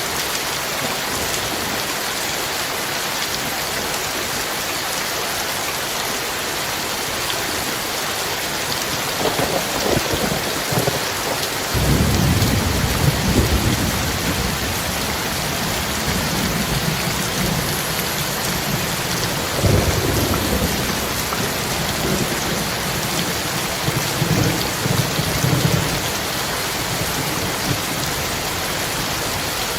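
Heavy rain falling with a steady hiss, and thunder rumbling in low rolling peals from about a third of the way in, swelling and fading several times.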